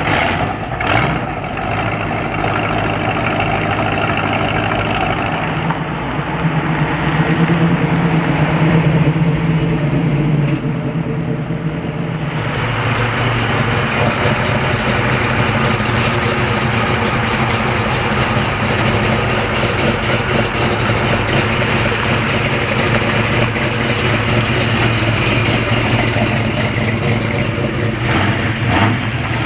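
Car engines running at a car show, mostly idling. One engine note grows louder about six seconds in and is replaced by another steady engine note about twelve seconds in.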